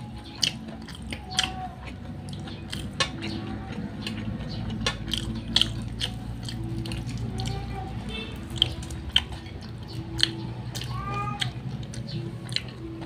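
Close-miked eating sounds of fried chicken and rice eaten by hand: chewing, biting and lip smacks, with scattered sharp clicks and smacks.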